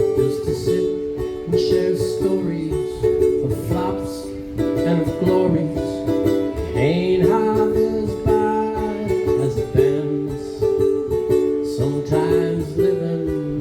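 Instrumental break of an acoustic song played on plucked string instruments, with no singing: steady strummed chords under a moving melody line.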